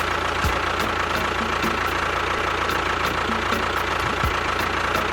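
Steady engine running at idle, an even mechanical noise with a constant high whine.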